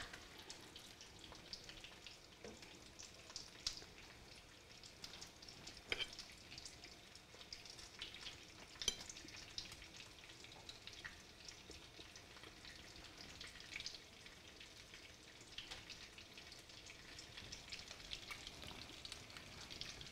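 Faint, steady sizzle and crackle of egg-battered chicken cutlets frying in olive oil in a skillet, with a few light clicks of a fork against a plate.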